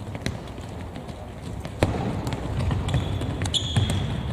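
Ball strikes and players' footsteps on a hard court during a 5-a-side match, with one sharp knock just under two seconds in. Near the end a referee's whistle gives a short blast.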